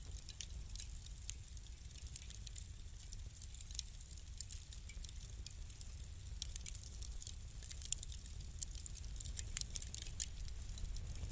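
Wood fire crackling: irregular sharp pops and snaps, thicker and louder in the second half, over a steady low rumble.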